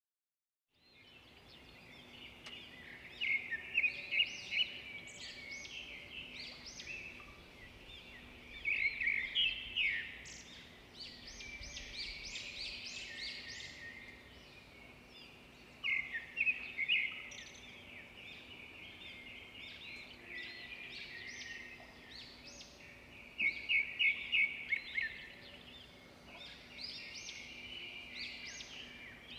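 Small songbirds chirping and twittering, with louder bursts of rapid notes every six or seven seconds over a faint steady hum.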